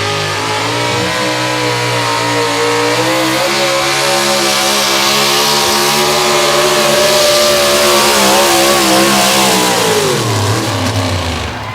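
Drag racing car engine at full throttle down the track, its note holding high and climbing slightly, then falling away sharply near the end.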